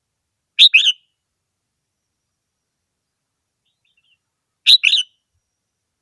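Red-whiskered bulbul singing: two short, loud phrases of a few quick notes each, about four seconds apart, with a faint call just before the second.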